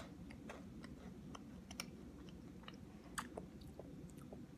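A person chewing a Pocky biscuit stick: faint, irregular crunches and small clicks.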